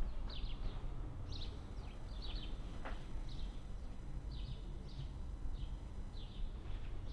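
A small bird chirping over and over, short high chirps about once or twice a second, over a steady low rumble.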